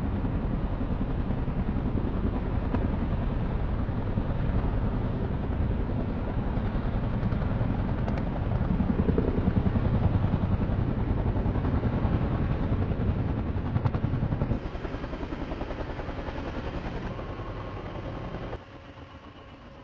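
Loud, steady aircraft engine noise. It drops sharply in level twice near the end, leaving a quieter engine with a faint steady whine.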